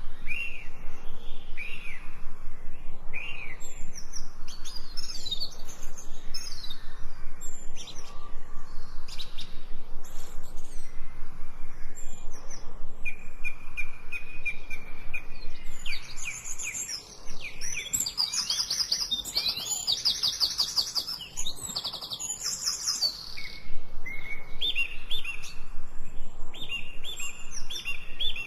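Several songbirds chirping and singing with overlapping calls: short rising and falling chirps, one held whistled note about halfway through, then a dense, fast trill and repeated short notes toward the end.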